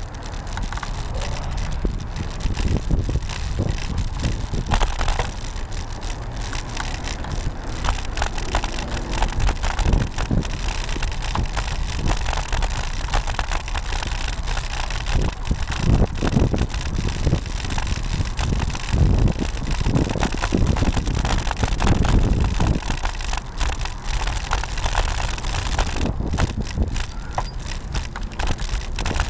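Riding noise from a camera mounted on a Cannondale R900 road bike: wind rumbling on the microphone, with frequent rattling knocks as the mount is jolted by the road.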